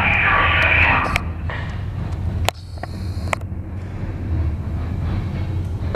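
Norfolk Southern local freight train rolling past: a steady low rumble with a few sharp clicks, dropping in level about two and a half seconds in.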